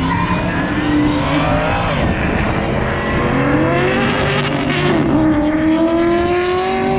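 Race vehicle engines running hard on the cone course, revving up and down: the pitch dips sharply about two seconds in and again near five seconds, then climbs steadily through the last couple of seconds as a vehicle accelerates.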